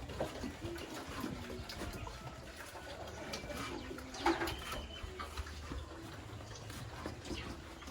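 Pigeons or doves cooing in low, short notes, with one louder, sharper animal call about four seconds in.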